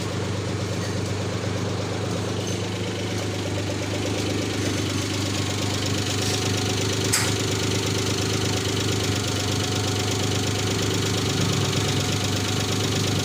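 Engine idling steadily, with a single sharp click about seven seconds in.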